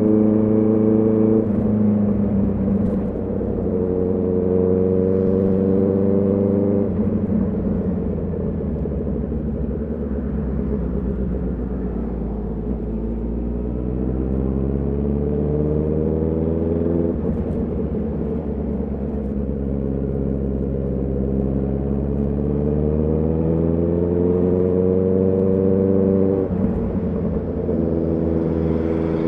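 Honda CB650R's inline-four engine and exhaust under way. The engine note holds steady, drops about seven seconds in, then twice climbs as the bike accelerates through the gears, falling suddenly at each upshift, about halfway and again near the end.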